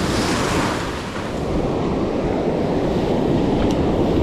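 Ocean surf breaking and washing on the beach, with wind buffeting the microphone. The wash swells in the first second, eases briefly, then runs on steadily.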